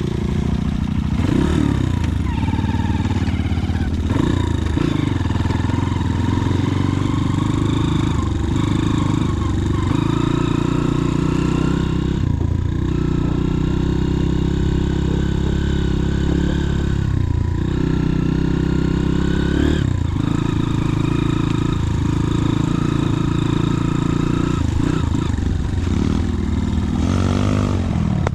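Motorcycle engine running while ridden, its pitch rising and falling several times as the throttle is opened and closed.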